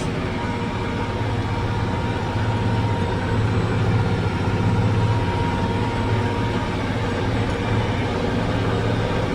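Versatile 875's Cummins 855 engine running steadily under load as the tractor pulls a wide cultivator, heard from inside the cab as a deep steady drone. A thin steady whine sits above it throughout.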